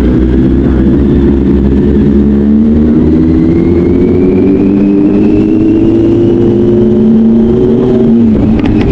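Inline-four superbike engine pulling under load, its pitch rising slowly for about six seconds and then dropping abruptly near the end, as at a gear change or throttle closing, over a loud low rumble.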